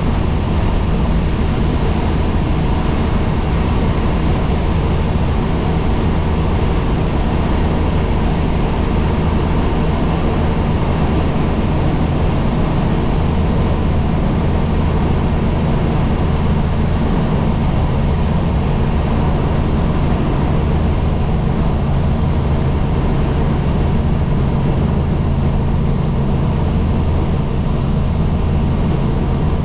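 Helicopter in steady flight: the engine and rotor give a loud, unchanging drone with steady low tones over a rushing noise.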